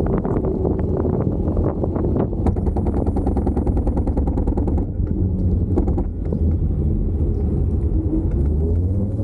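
Riding noise from a Kaabo Wolf King GT Pro electric scooter: wind rushing over the camera's microphone and tyre rumble, with a faint motor whine that climbs in pitch near the end. A fine rapid rattle runs for a couple of seconds in the middle.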